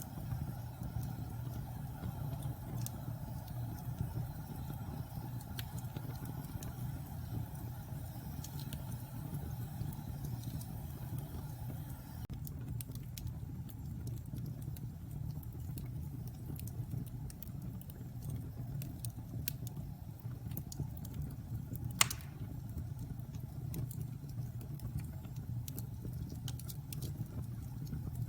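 Wood fire burning in a fireplace: a steady low rumble of flames with scattered small crackles, and one louder pop about three-quarters of the way through.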